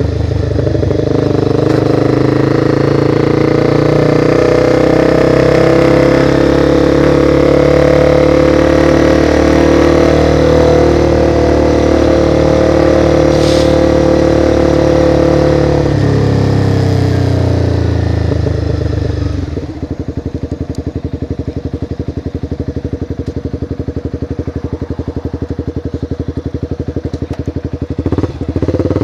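Motorcycle engine running at steady road speed with rushing air, then its note falls away for a few seconds as the bike slows. It then idles with an even pulsing for most of the rest, and it picks up again near the end as the bike pulls away.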